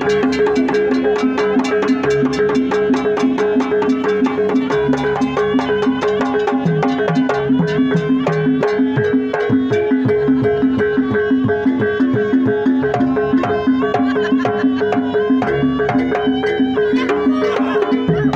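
Jaranan ensemble music: a dense, fast, even run of percussion strokes over a steady held drone tone, with no break.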